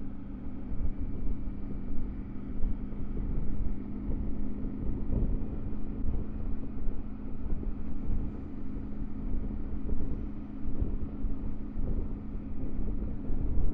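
Triumph Tiger 900 GT Pro's three-cylinder engine running at a steady cruise, with wind and road noise rushing over the on-bike microphone.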